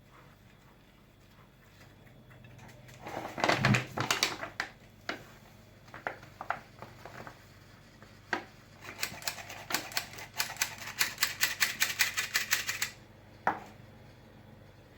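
Small wire whisk beating thick pancake batter, clicking against the sides of the bowl. First come a few heavy knocks and scattered clicks, then a fast even run of about six clicks a second for some four seconds, which stops suddenly.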